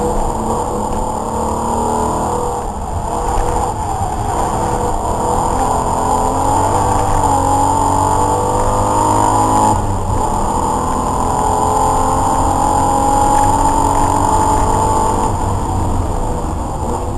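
Race car's engine heard from inside the cabin, pulling hard with the revs climbing; about ten seconds in an upshift drops the pitch, it climbs again, and the revs ease off near the end.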